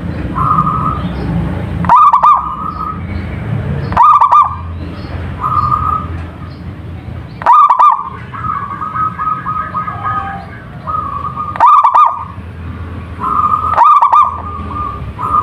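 Zebra dove (perkutut) cooing: short loud phrases that recur every two to four seconds, with softer trilled coos between them.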